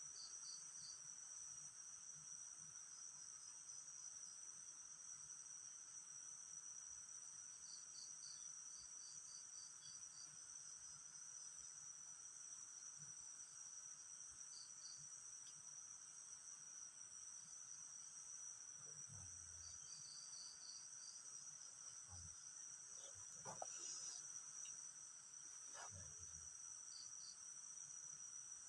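Night insects, mostly crickets, chirping in a steady high drone, with short groups of quicker chirps now and then. A brief faint rustle comes about 23 seconds in.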